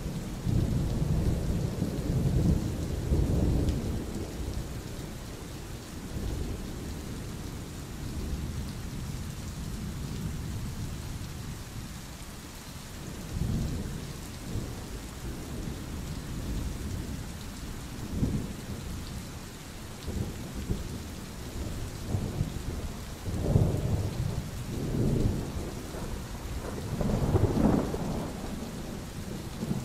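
Steady rain with rolling thunder, the rumbles swelling several times: strongly in the first few seconds, briefly twice in the middle, and again in a run of rumbles near the end.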